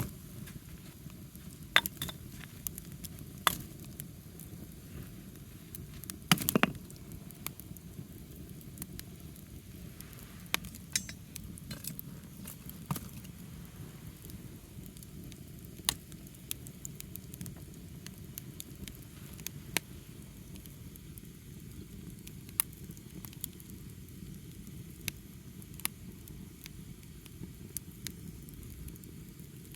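Wood fire burning: a steady low rush of flame with irregular sharp crackles and pops, the loudest a short cluster of pops about six and a half seconds in.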